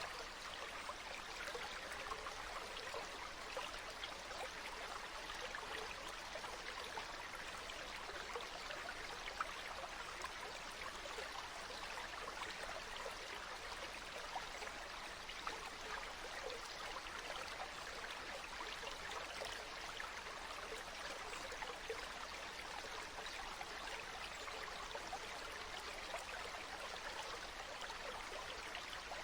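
Stream water flowing and babbling steadily, a dense even rush of small splashes and bubbling with no pauses or changes.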